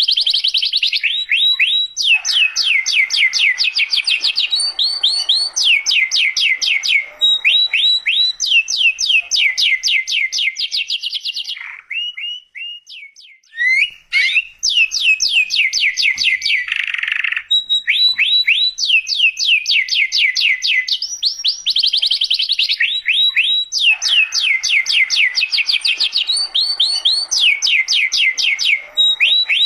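Domestic canary singing vigorously: long runs of fast, high trills, each a rapid string of repeated notes, changing from one trill to the next. The song pauses briefly about twelve seconds in, then carries on.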